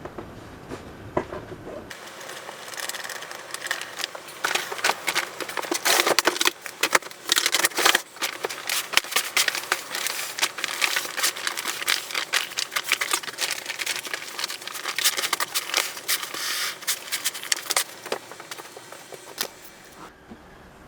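Crinkling and rustling made up of many small irregular crackles, starting about two seconds in and stopping shortly before the end.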